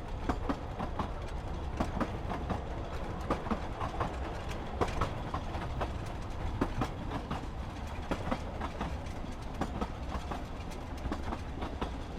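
Train running on the rails: a steady low rumble with frequent, irregular clicks and knocks from the wheels and carriage.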